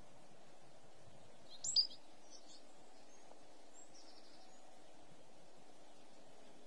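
A few short, high bird calls: a loud pair about one and a half seconds in, then fainter ones over the next few seconds, over steady outdoor background noise.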